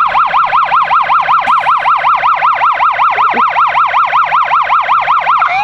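Fire truck siren in a fast yelp, a loud tone sweeping up and down about five times a second, switching to a slow rising wail near the end.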